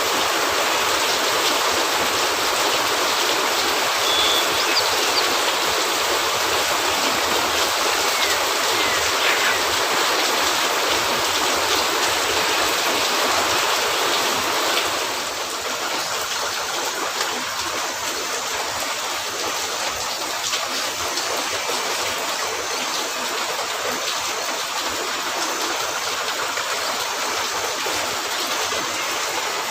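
Steady heavy rain, an even hiss that drops a little in level about halfway through.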